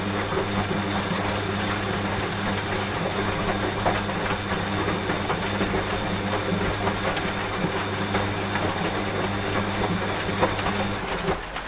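Washing machine running with a steady low hum and a faint high whine, which cut off suddenly near the end, over steady rain.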